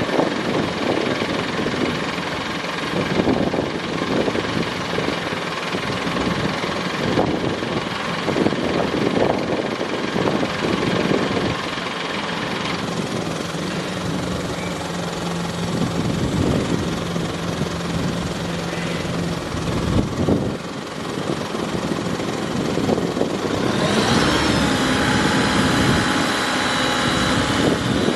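Mitsubishi Fuso Canter dump truck's 4P10 turbo-diesel engine running, with a steady hum joining in for several seconds about halfway through and a higher-pitched whine setting in near the end.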